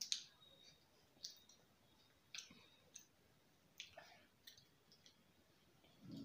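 Faint eating sounds: mouth clicks and smacks from chewing french fries and a sandwich, a short sharp click roughly once a second.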